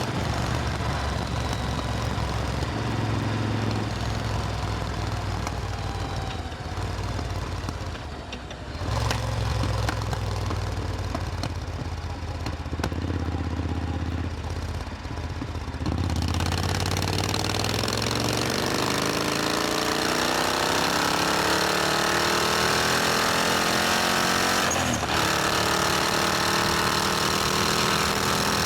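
Supercharged Triumph Thunderbird Storm motorcycle engine running steadily at low revs. About halfway through it opens up and accelerates, its pitch climbing for several seconds, with a brief dip near the end.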